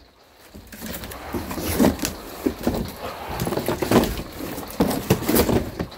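Firewood bundles being handled and stacked: irregular wooden knocks and thuds with rustling between them, the loudest knocks about two and four seconds in.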